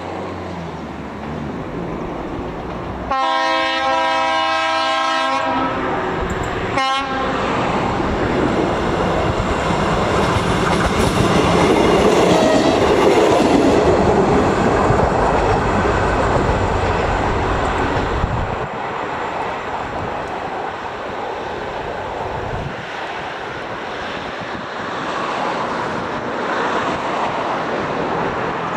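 ČD class 842 diesel railcar sounding its horn as it approaches the crossing: a blast of about two seconds, then a short toot about a second later. It then runs past, loudest about twelve seconds in, and fades away.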